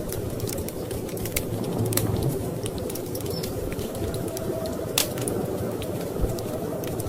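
Wood fire crackling in a fireplace, with irregular sharp pops and snaps, the loudest about five seconds in, over a steady low rumble.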